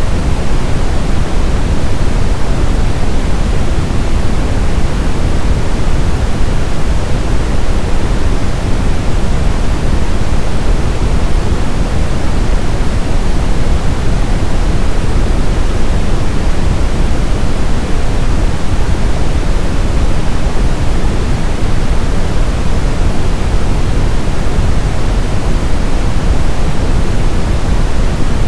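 Steady brown noise, a deep, even rush weighted toward the low end, with no change throughout.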